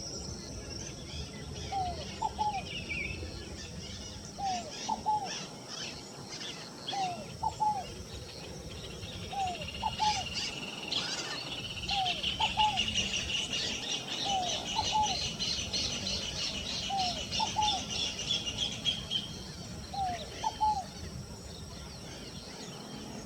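Scaled dove (fogo-apagou) singing, repeating its short low phrase about every two seconds. Higher chirps of other birds run alongside, with a long high trill from about ten to nineteen seconds in.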